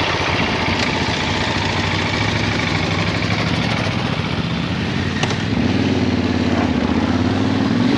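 Adventure motorcycle engines idling steadily. About five and a half seconds in, a higher engine note comes in and slowly rises in pitch as a bike pulls away.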